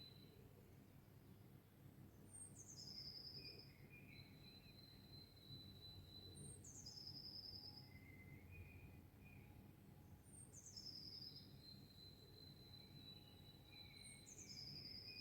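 Faint birdsong: a high phrase of quick notes stepping down in pitch, repeated about every four seconds (four times), each followed by a long steady whistle, with softer lower chirps between, over a low background hum.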